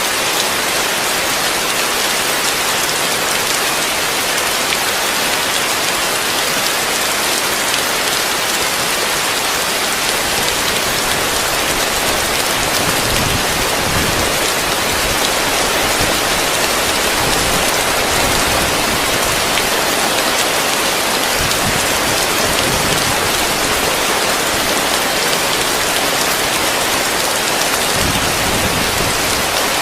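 Heavy rain falling steadily on a roof: a dense, even hiss, with a low rumble swelling and fading now and then in the second half.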